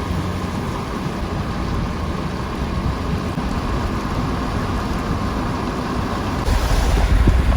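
A vehicle driving, with a steady low engine and road drone. About six and a half seconds in, wind starts buffeting the microphone and the rumble gets louder.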